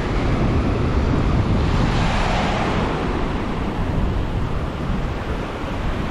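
Strong wind buffeting the microphone over the rush of surf breaking on a beach, with a louder surge of surf about two seconds in.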